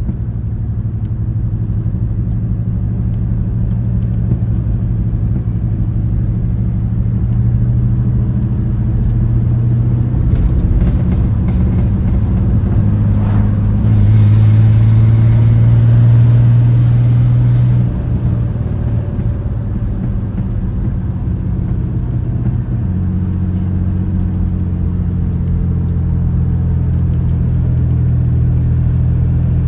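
Exhaust of a 1993 Chevy S10's 4.3 V6 running with the muffler cut out, a loud low drone while driving. The engine note holds steady and shifts in pitch several times, with a louder stretch about 14 seconds in that drops off near 18 seconds.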